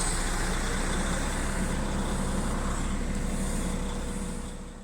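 Truck's diesel engine idling steadily, fading out near the end.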